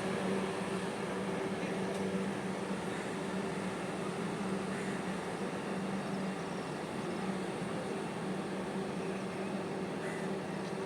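Vande Bharat electric train giving off a steady hum with a low held tone, with no rise or fall in pitch.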